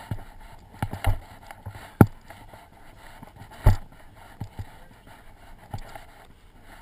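Footsteps of people walking on a trail, with irregular sharp knocks, the loudest about two seconds in and again near four seconds.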